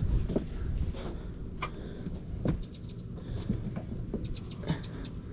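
Scattered light knocks and clicks as a bungee cord is stretched and its hooks are fastened over a refrigerator handle on a trailer, with a few short high chirps among them over a steady low rumble.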